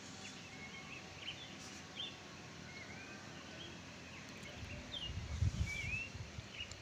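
Wild birds chirping: scattered short whistled notes, some rising and some falling. A low rumble comes in about two-thirds of the way through.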